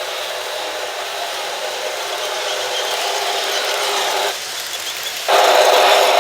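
Model PRR T1 steam locomotive running on track with a steady whirring hiss. The hiss dips briefly about four seconds in, then comes back louder about a second later.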